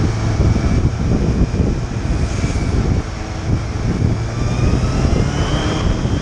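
Motorcycle engine running while riding, heavy wind rushing over the microphone, with a tone that rises in pitch from about four seconds in as the bike speeds up.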